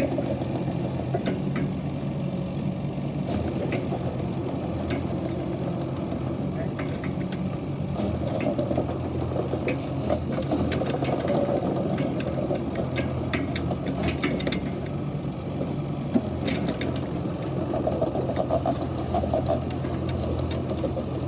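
Kubota KX71-3 mini excavator's diesel engine running steadily, with scattered clicks and knocks over it.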